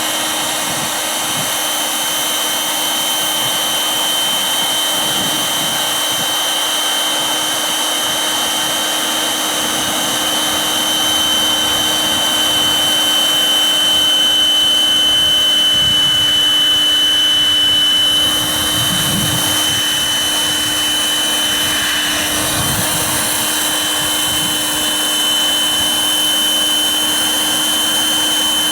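Electric air pump running steadily with a high whine, inflating an inflatable boat.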